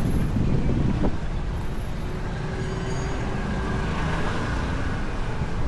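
Steady traffic noise: a motor vehicle's engine running, with a low rumble and a brief knock about a second in.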